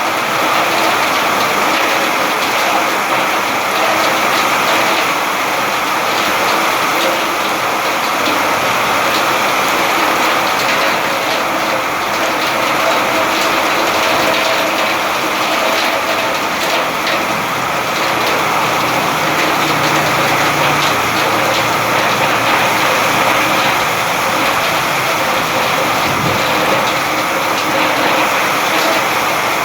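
Steady, loud rain falling without a break, a dense even hiss of drops.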